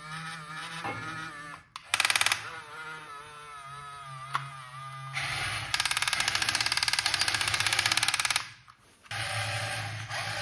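Electric motors and plastic gears of a remote-control toy vehicle running in bursts: a wavering whine, then a fast rattling buzz for about three seconds, a short stop, and a steady low hum near the end.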